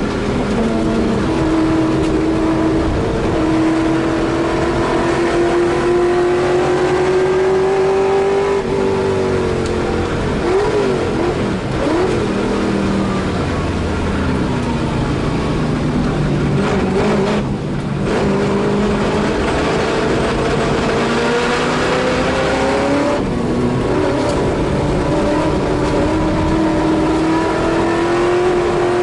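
Holden Torana A9X touring car's V8 racing at full load, heard from inside the cabin: the engine note climbs slowly through long pulls, with quick dips and rises of revs around gear changes partway through and a brief lift of the throttle a little past halfway.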